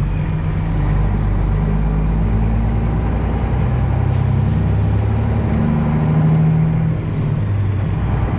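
Detroit Diesel 12.7-litre engine of a Freightliner Classic XL semi truck running steadily under way, a deep drone that swells slightly about two-thirds of the way through.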